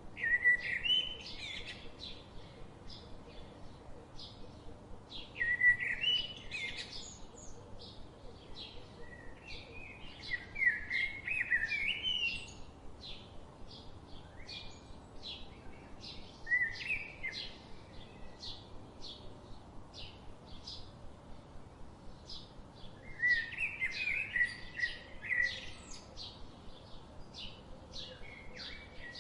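Forest birdsong: one bird repeats a short, quick warbling phrase about every five to six seconds, over a steady run of rapid high ticking calls and a soft background hiss.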